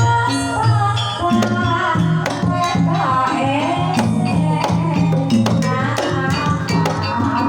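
Banyumasan tayub gending: a Javanese gamelan-style ensemble plays a repeating pattern of sustained pitched notes with quick, steady percussion strokes, while a female sinden sings wavering, ornamented vocal lines over it.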